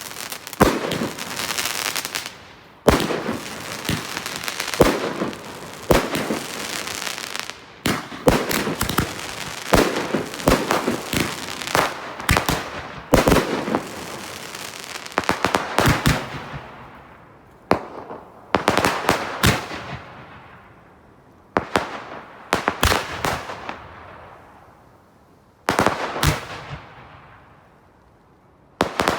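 Consumer fireworks going off in repeated volleys of sharp bangs, each volley fading away in a lingering echo before the next, with the gaps growing longer near the end.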